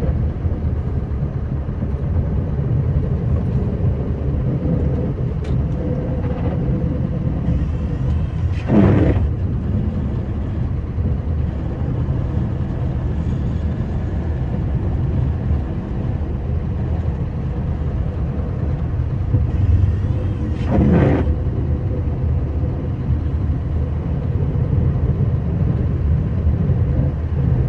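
Scania R560 snowplow truck's V8 diesel engine running steadily under load, a low rumble, with two brief louder noises about nine and twenty-one seconds in.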